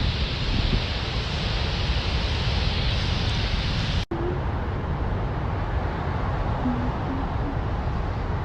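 Strong wind buffeting the microphone: a steady rushing noise with a heavy low rumble. The sound breaks off sharply about four seconds in and carries on after the cut.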